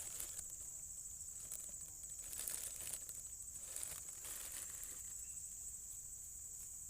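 Steady, high-pitched insect chorus, with a few faint rustles in the first few seconds.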